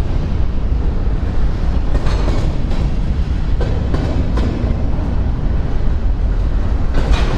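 Freight train rolling past: a steady low rumble of the cars, with irregular sharp clicks as the wheels pass over rail joints.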